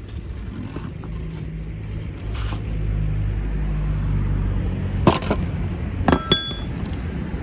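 A motor engine runs with a steady low hum that grows louder about two to three seconds in. A sharp clink comes about five seconds in, then two more ringing clinks close together about a second later, like something hard striking metal or glass.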